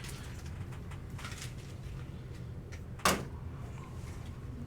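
A single sharp click about three seconds in, over faint steady room hum.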